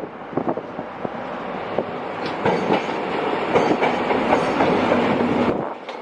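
A train moving along the track, its wheels clacking over rail joints, growing louder, then cutting off abruptly near the end.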